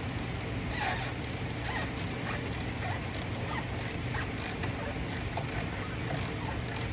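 Gasoline draining from a car's fuel tank and splattering into a catch can, with irregular short squeaky patters over a steady low hum.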